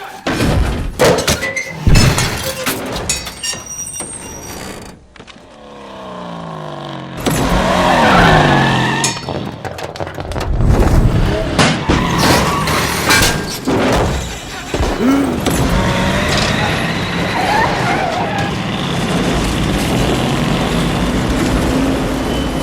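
A string of sudden crashes and impacts, a sound that glides down in pitch, then a steady engine-like vehicle noise to the end.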